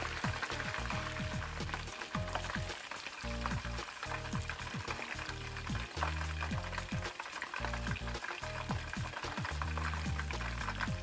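Chicken wings deep-frying in hot oil in a pan: a steady sizzle with dense crackling from the bubbling oil. Low background music plays underneath.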